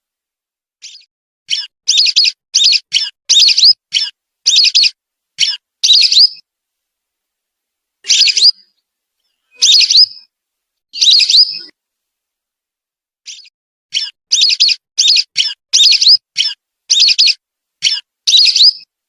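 Whistling duck (belibis) calls played back as a hunting lure: shrill whistled notes. A quick run of about eight notes comes in the first six seconds, then three single calls spaced about a second and a half apart, then another quick run of about eight notes near the end.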